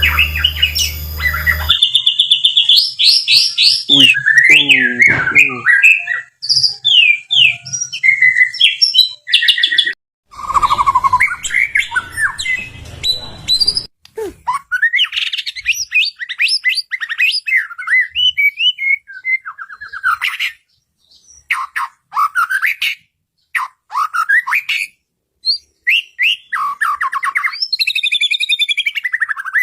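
White-rumped shama singing a varied song of quick whistled phrases, trills and pitch glides, broken by short pauses. A low hum under the first two seconds cuts off abruptly.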